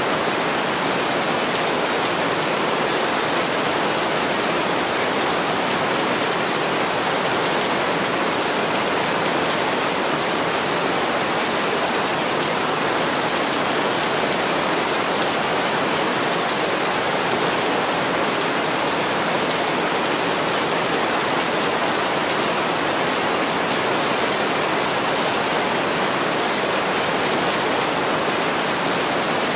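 Heavy rain pouring down on a window, a steady, even hiss with no break or change.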